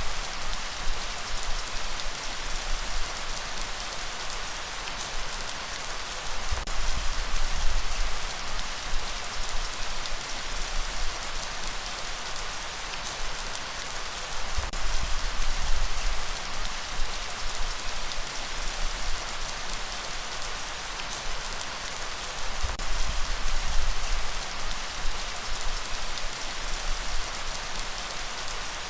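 Steady rain falling and pattering on surfaces, with a deep low rumble underneath that swells and fades about every eight seconds.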